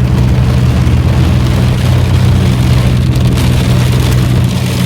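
Steady drone of a car heard from inside the cabin, with the hiss of heavy rain on the car.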